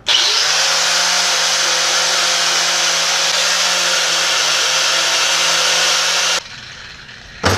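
Handheld power buffer running steadily, buffing a gasket surface on a 350 small-block Chevy engine block for a blanking plate. It starts abruptly, runs about six seconds and cuts off suddenly.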